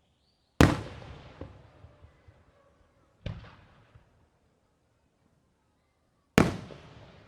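Aerial fireworks shells bursting: three booms, a loud one about half a second in, a weaker one near the middle and another loud one near the end, each fading away over about a second.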